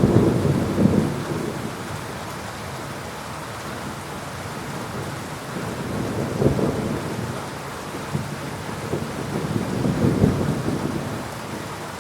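Thunderstorm: steady rain with rumbles of thunder, loudest near the start and swelling again about six and a half and ten seconds in.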